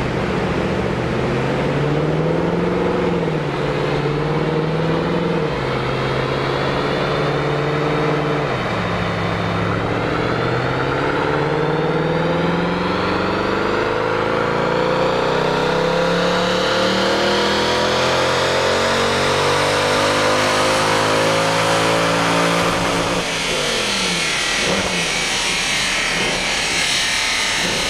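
Porsche 911 flat-six engine making a wide-open-throttle power pull on a chassis dyno under brake load: after some uneven throttle, the engine note climbs steadily for about fifteen seconds, then the throttle closes and the revs fall away.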